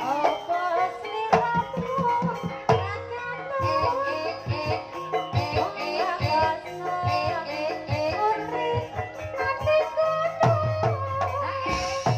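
A sinden singing a wavering, ornamented vocal line in Javanese style over music with hand-drum strokes.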